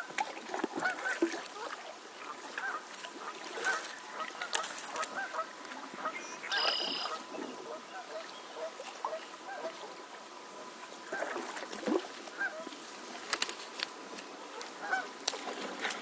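Geese honking, many short calls scattered throughout, with a few sharp knocks in between.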